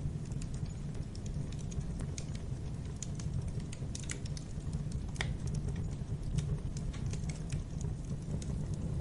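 Wood fire burning in a fireplace: irregular crackles and pops over a steady low rumble, with one louder pop about five seconds in.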